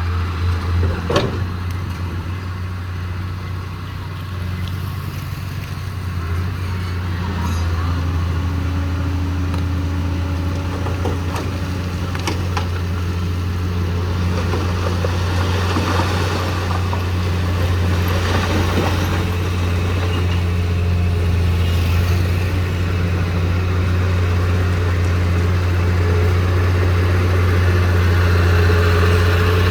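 Heavy diesel engine of earthmoving machinery running steadily with a deep drone. A sharp knock comes about a second in and a few more knocks and clatters follow, and the engine grows slightly louder toward the end.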